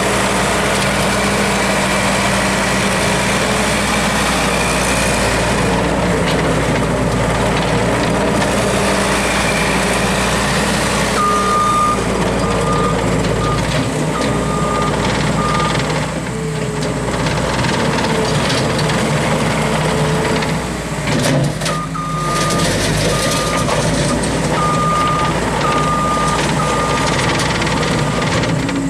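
Case 450CT track skid steer's engine running steadily, with its backup alarm beeping in two spells as the machine reverses, and a few knocks between them.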